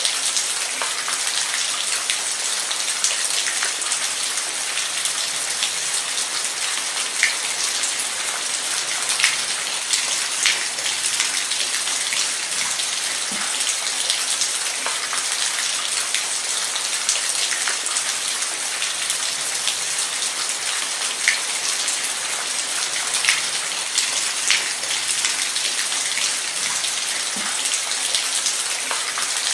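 Steady rain falling, an even hiss with scattered sharp drop clicks.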